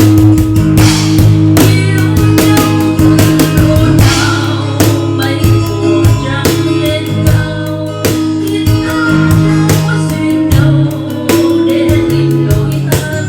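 Live band playing a bolero song, with guitar, bass notes and a drum kit keeping a steady beat.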